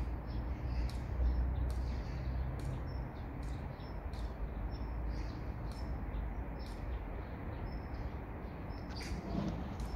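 Small birds chirping, short high chirps coming several times a second and scattered throughout, over a steady low rumble.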